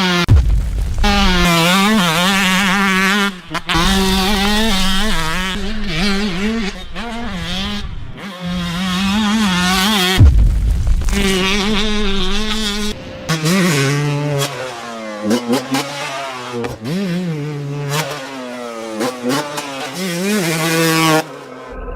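Two-stroke dirt bike engines ridden hard, a high buzzing note that swings up and down in pitch with the throttle, broken by several abrupt cuts. In the second half the note sits lower, with quick repeated rises and falls as the throttle is blipped.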